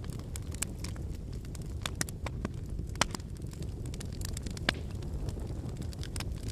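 Wood fire burning: a steady low rush of flames under frequent sharp crackles and pops from the burning firewood, the loudest pops about three seconds and nearly five seconds in.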